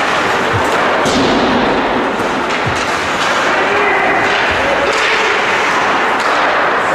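Ice hockey game sound: a steady loud rush of rink noise with scattered sharp knocks, as of sticks and puck.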